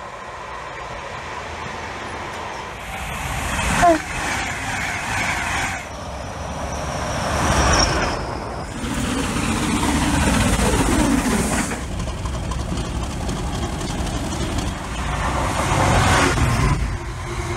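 Trains passing station platforms in a run of short cut-together clips that change every few seconds: an electric multiple unit, the Class 40 diesel locomotive D213 running light, then a GBRf Class 66 diesel hauling a container freight train. A short, sharp, loud sound comes about four seconds in.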